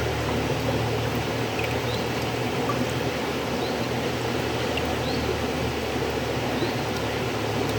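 River water flowing, a steady even rushing noise with a few faint, short high chirps scattered through it.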